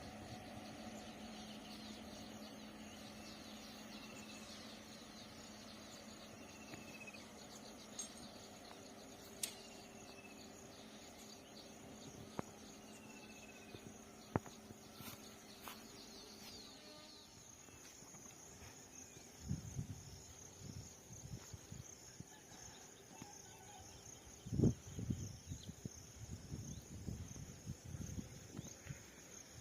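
Quiet outdoor ambience dominated by a steady high-pitched insect chirring, with a few short chirping calls. From about two-thirds in come irregular low thumps and rumbles, the loudest near the end.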